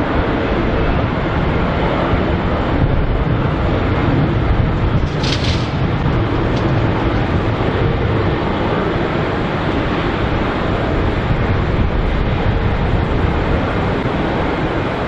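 Jet airliner engines making a steady, loud rushing noise, with a brief hiss about five seconds in.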